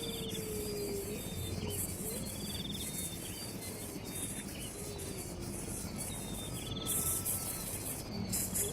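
Insects, crickets among them, chirping in a steady high-pitched chorus, with short trilled chirps repeating every couple of seconds and a few faint low gliding calls.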